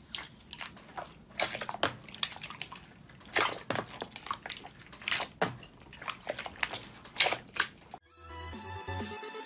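Slime being squeezed and poked, with irregular sharp pops and squelching clicks. Near the end it cuts suddenly to electronic dance music.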